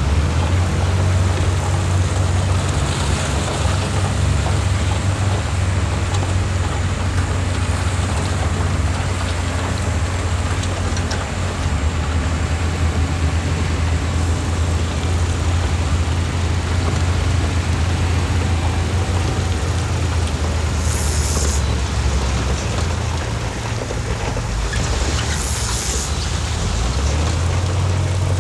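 Heavy diesel engine of earthmoving equipment running steadily under load, with two short high hisses in the second half.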